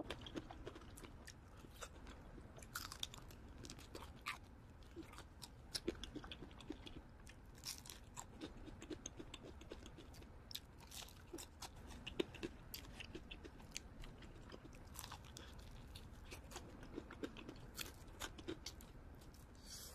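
Close-miked eating: irregular crisp crunches and small wet clicks of chewing fried chicken, faint and scattered.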